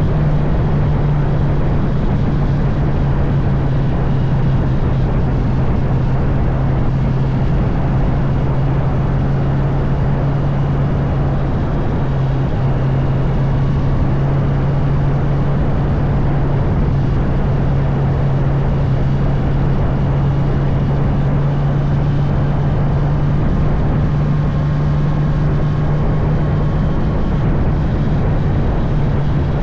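Honda CB650R's inline-four engine running at a steady cruise, its note holding level throughout, over a constant rush of wind and road noise.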